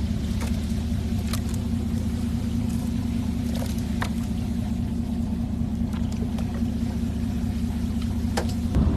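A steel fishing boat's engine running at a steady low drone, with a few scattered sharp clicks and knocks over it.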